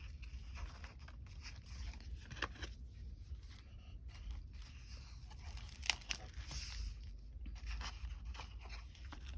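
Paper and card rustling as the pages, inserts and pockets of a thick handmade altered-book journal are handled and turned, with a sharper crackle about six seconds in. A faint steady low hum sits underneath.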